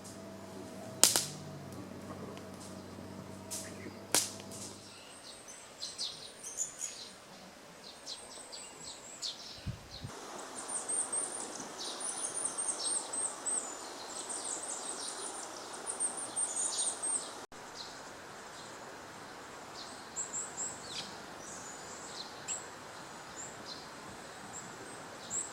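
Small birds chirping: many short, high-pitched calls repeated over and over. Near the start come two sharp snaps, the first about a second in and the second about four seconds in.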